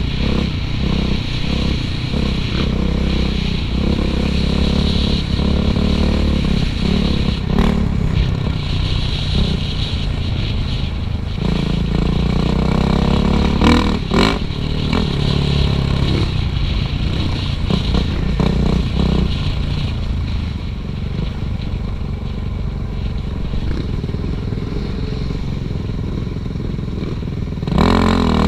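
Suzuki RM-Z450 dirt bike's single-cylinder four-stroke engine running under throttle, the revs climbing and dropping repeatedly, with a sharp rev rise near the end and a couple of brief knocks.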